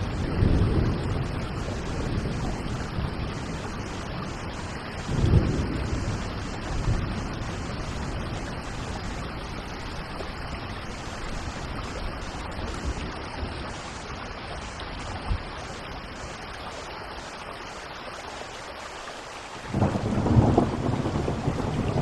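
Steady rain with thunder. Low rumbles roll in about half a second in and again around five seconds in, then a louder peal of thunder breaks in suddenly near the end.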